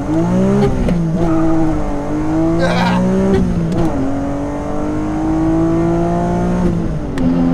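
BMW S54 3.2-litre straight-six engine in an E36 M3, heard from inside the cabin, accelerating hard at full throttle. Its pitch climbs through each gear and drops at an upshift about a second in and again about four seconds in, then falls once more near the end.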